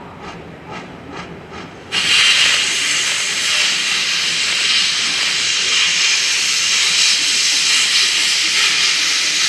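C57 1 steam locomotive: soft rhythmic exhaust beats about two and a half a second, then about two seconds in a sudden loud, steady hiss of venting steam cuts in and covers them.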